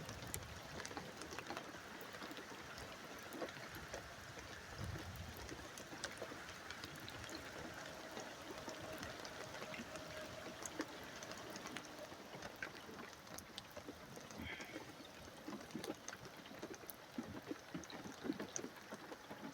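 Light rain and dripping water as a downpour eases off: a faint, steady patter with scattered drops.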